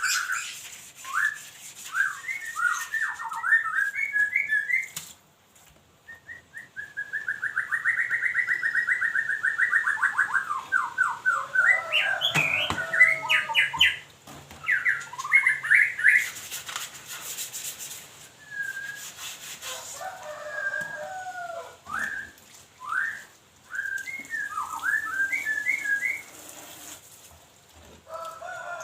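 A songbird singing a string of quick whistled phrases and chirps, with a long rapid trill about six seconds in, over short bursts of hiss.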